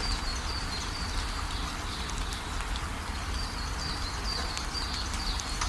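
Outdoor ambience with a steady low rumble, over which a bird gives repeated short, high, falling chirps, with a few faint ticks in between.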